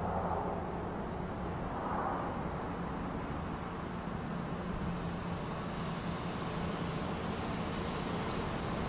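Car engine running with a steady low rumble. A rising hiss comes in from about halfway through.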